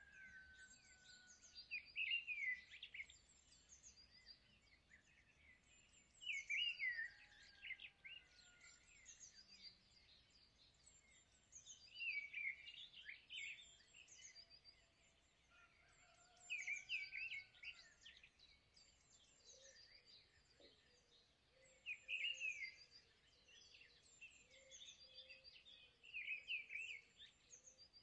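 Bird song: short bursts of high chirps and trills that come back about every four to five seconds, with faint whistled notes in between.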